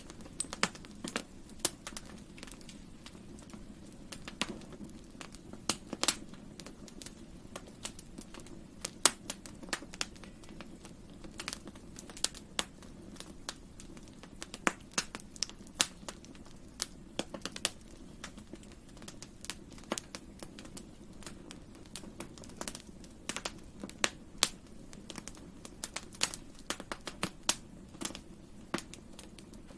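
Campfire burning with irregular sharp crackles and pops over a steady low rush of flame.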